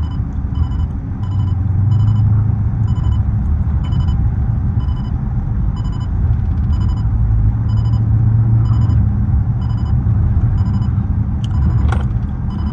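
Dodge Charger SRT 392's 6.4-litre HEMI V8 heard from inside the cabin while driving: a steady low engine and exhaust drone with road rumble, swelling twice.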